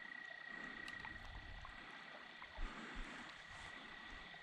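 Frogs calling at night: one steady, high trill held throughout, with two soft knocks about two and a half and three seconds in.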